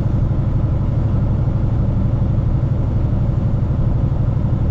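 Steady, even low rumble of a vehicle engine running.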